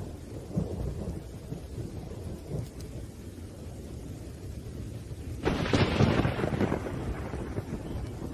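Thunderstorm: a low rolling rumble of thunder with rain. About five and a half seconds in, a sudden sharp thunderclap breaks in and fades away over a couple of seconds.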